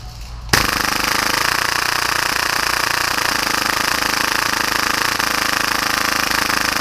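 Full-auto Tokyo Marui Hi-Capa gas blowback airsoft pistol firing one continuous rapid burst at about 30 rounds a second, a dense steady rattle. It starts about half a second in and cuts off at the end, when the pistol stops firing on its own.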